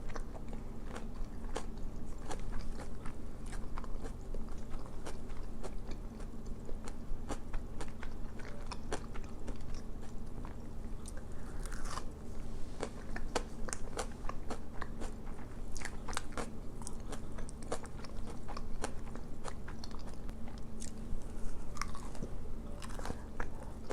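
Close-up eating sounds: bites into crispy breaded, oven-baked onion rings, with crunching and chewing and many sharp crackles, over a faint steady hum.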